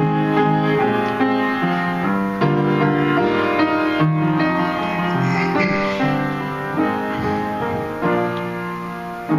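Piano playing an instrumental passage of sustained chords, with no singing; it eases off slightly near the end.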